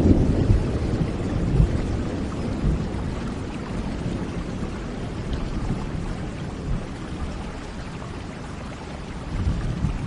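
Steady rain during a thunderstorm, with a low thunder rumble dying away in the first couple of seconds and a faint low rumble swelling again near the end.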